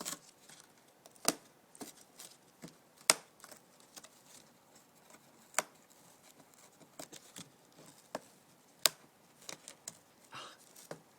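Umbrella cockatoo's beak biting and tearing cardboard: irregular sharp snaps and crunches a second or more apart, with smaller ticks between.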